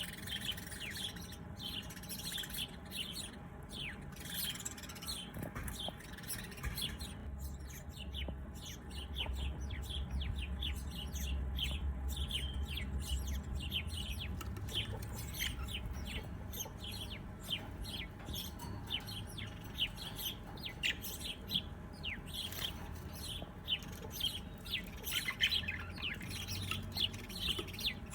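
Small birds chirping: a dense stream of short, high, quick chirps from several birds. A low rumble sits underneath through the middle of the stretch.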